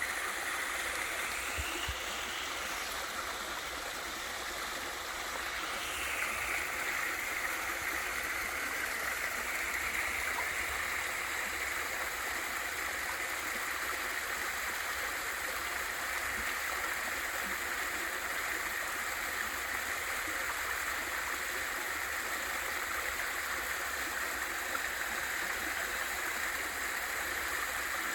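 Waterfall pouring into a mountain valley stream: a steady, even rush of falling and flowing water.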